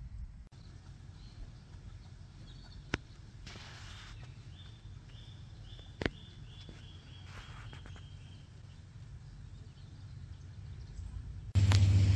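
Quiet outdoor ambience with a low steady rumble underneath. A bird calls a run of about six short, slightly falling high notes in the middle, and two sharp clicks come about three and six seconds in. Near the end a much louder low rumble cuts in suddenly.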